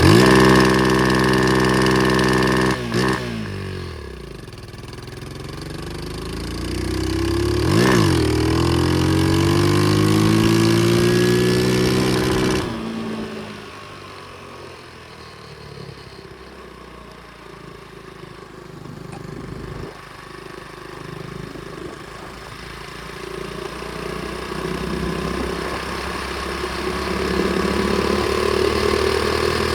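Pit bike engine running under way: it is loud at first, drops in pitch about three seconds in, then climbs again as the bike speeds up, with a brief peak near eight seconds. About thirteen seconds in it suddenly falls much quieter, and it slowly picks up again toward the end.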